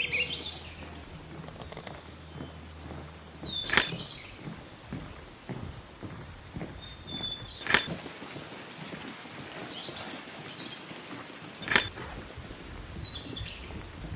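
Small forest birds calling with short high chirps and whistles over a faint hiss. A sharp click comes about every four seconds and is the loudest sound.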